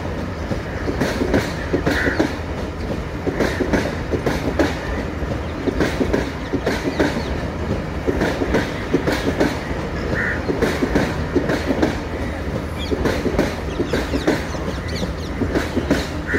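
Passenger train coaches rolling past, the wheels clattering over the rail joints in repeated clusters of clicks. Three brief high squeaks come through, at about two seconds, ten seconds and near the end.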